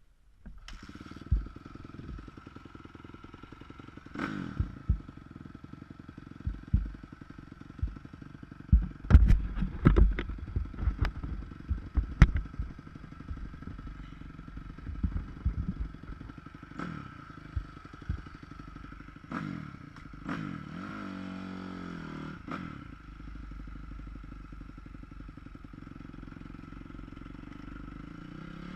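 Motocross dirt bike engine picked up from inside a GoPro's waterproof housing, running with a steady drone and many sharp knocks and clatters, thickest about a third of the way in. Past the middle the engine pitch briefly bends up and down.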